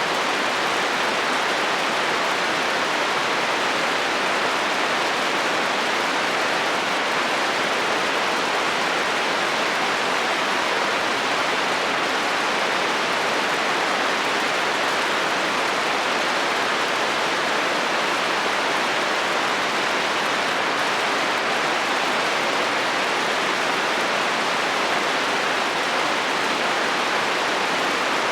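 Steady rain falling on a metal roof, an even, unbroken hiss.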